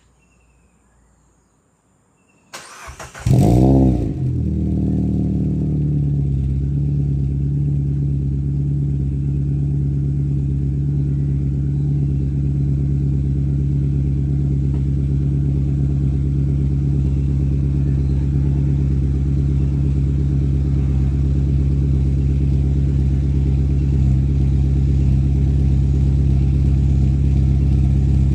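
Proton Preve's Campro four-cylinder engine being started: the starter cranks briefly, the engine catches about three seconds in with a short flare of revs, then settles into a steady idle heard through its single-muffler exhaust.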